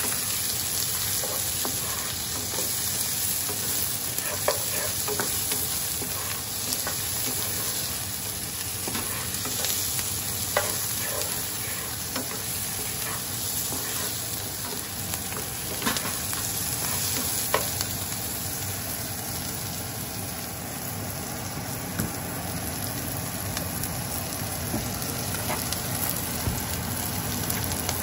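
Diced onion and garlic sizzling in a nonstick frying pan while a wooden spoon stirs and scrapes them around, with occasional sharp taps of the spoon against the pan.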